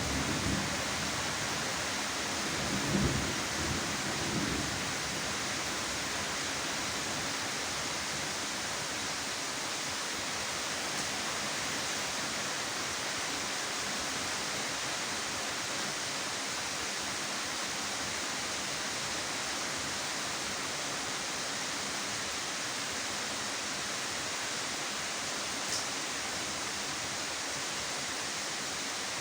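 Steady, even hiss of heavy rain falling. A low rumble dies away in the first few seconds.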